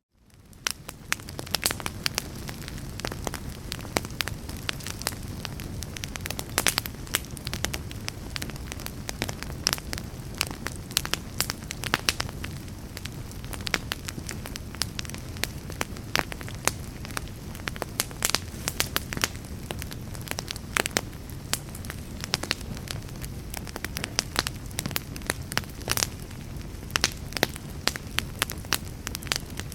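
Fire burning in a fireplace, a steady low rush of flames with frequent sharp crackles and pops. The sound dips out briefly right at the start and fades back up over about a second.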